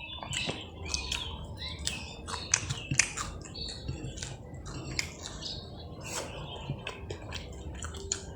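Close-miked eating of crispy fried catfish: irregular crunching and lip-smacking clicks with short squeaky chirp-like mouth sounds mixed in, the sharpest clicks about two and a half and three seconds in.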